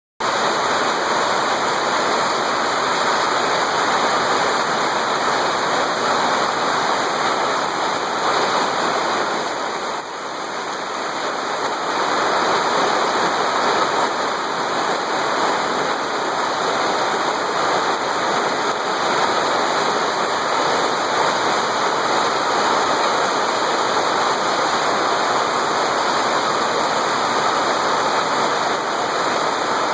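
Heavy rain falling: a steady, loud rush of water, dipping slightly for a moment about ten seconds in.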